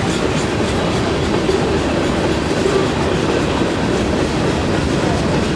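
Freight cars of a mixed freight train rolling past at steady speed: a loud, even rumble of steel wheels on the rails with repeated clicking as the wheels cross the rail joints.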